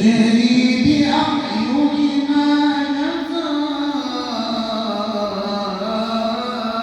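A man's voice reciting the Quran in the melodic, drawn-out tajweed style, holding one long wavering line that steps up and down in pitch.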